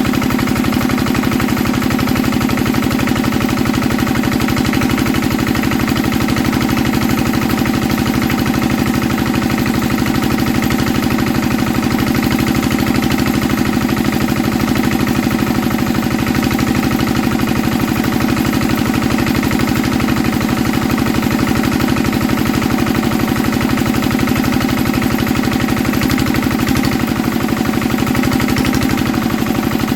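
Old Enfield stationary diesel engine running steadily after a hand cold start, with an even, rapid firing beat and no change in speed.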